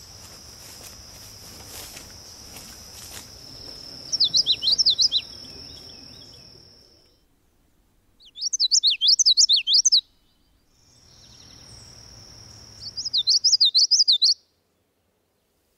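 Songbird singing: three phrases of rapid, sharp up-and-down chirping notes, about 4 s apart, over a long, steady high note.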